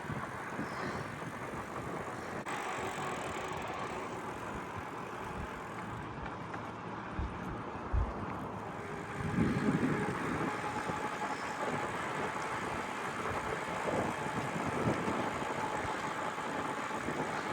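Gravel bike rolling on smooth pavement: a steady rush of wind and tyre noise, with a couple of low knocks about eight seconds in.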